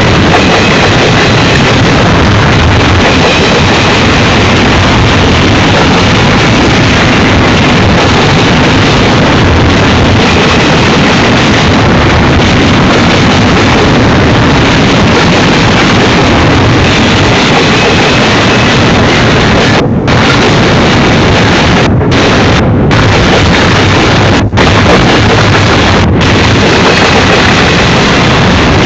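Double-stack container cars of a Union Pacific freight train rolling past at close range: a very loud, steady rumble and roar of steel wheels on rail. The sound briefly drops out a few times about two-thirds of the way through.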